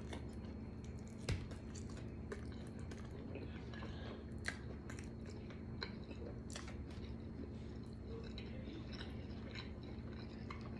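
Mouth sounds of a person chewing a soft shrimp taco, with small wet clicks and smacks scattered through and one sharper click about a second in. A steady low hum underneath.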